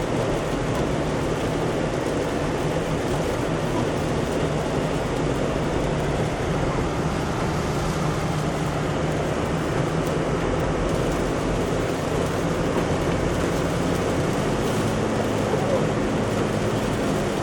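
Steady road noise heard from inside a moving car: engine hum and tyres running on a wet, sleet-covered road. Near the end the engine note steps up slightly in pitch.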